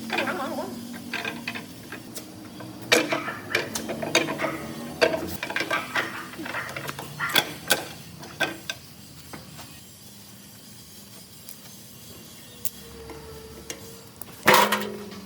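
Metal engine parts and hand tools clinking and knocking in a string of sharp, irregular clanks, thinning out in the second half, with one loud clank near the end.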